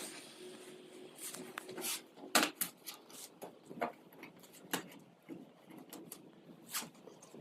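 Irregular light knocks and clicks, like objects being handled, with the loudest knock about two and a half seconds in.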